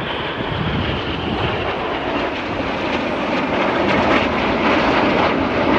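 Jet engine noise of Red Arrows BAE Hawk jets flying a display pass, a steady rushing noise that grows a little louder toward the end.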